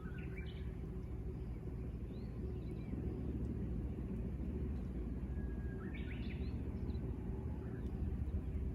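Japanese bush warbler singing its "hoo-hokekyo" song twice, at the start and about six seconds in: a held whistle followed by a quick rising flourish. A steady low rumble runs underneath.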